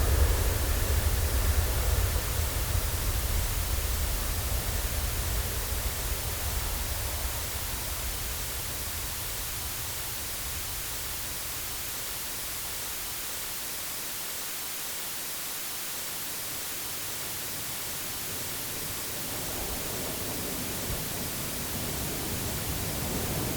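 Airplane engine noise: a deep rumble with a broad hiss fades away over roughly the first ten seconds, leaving a steady even hiss. The sound begins to swell again near the end.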